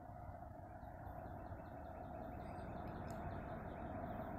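Faint, steady low rumble of an approaching freight train, slowly growing louder. A bird chirps over it with a quick string of short falling notes, starting about a second in.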